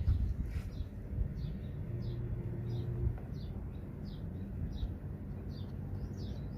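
A small bird chirping over and over, a short high chirp about every half second, over low handling rumble. A brief low hum comes in about two seconds in and cuts off a second later.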